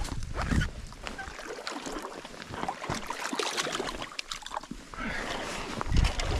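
River water splashing and sloshing, with many small irregular splashes and clicks and a couple of heavier thumps near the start and end.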